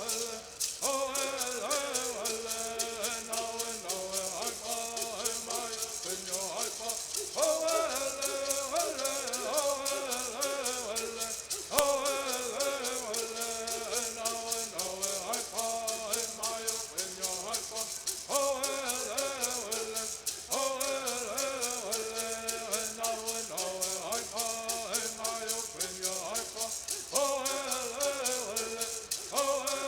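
Southern California Bird Singing: voices singing sung phrases over the fast, steady shaking of gourd rattles. The song breaks off and starts a new phrase every several seconds.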